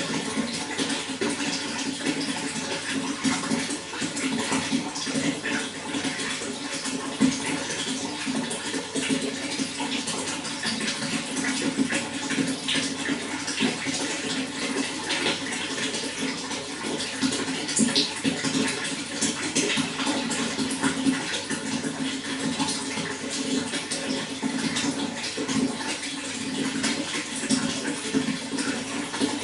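Water running steadily, a continuous rush with a low band and many small splashing ticks on top.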